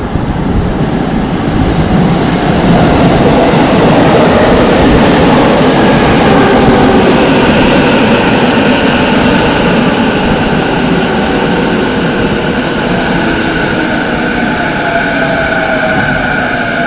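E233-7000 series electric train arriving and braking, its Mitsubishi IGBT VVVF inverter whining in several tones that slowly fall in pitch as it slows, over a steady rumble of wheels on rail.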